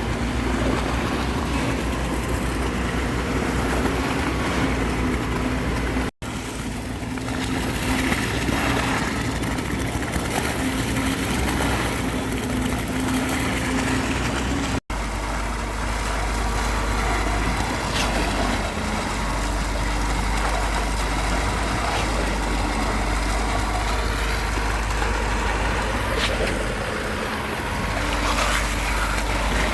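A motor vehicle's engine running steadily with a low rumble. The sound drops out abruptly twice, about six and fifteen seconds in.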